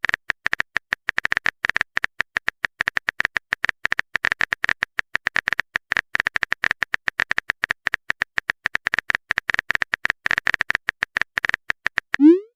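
Typing sound effect: a long run of quick, uneven clicks like taps on a phone keyboard.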